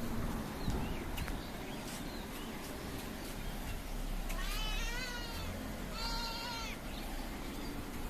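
Domestic cat meowing twice: a meow about four seconds in that rises and then falls in pitch, and a shorter, steadier one about a second later.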